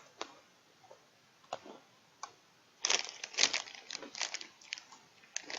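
Crunchy Pepero white cookie biscuit stick being bitten and chewed: a few sharp crunches early, then a quick run of crackly crunches from about three seconds in.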